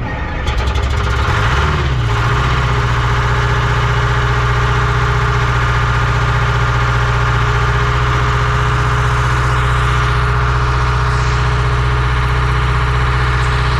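Vehicle engine picking up just after start-up, its revs settling by about two seconds in, then idling steadily.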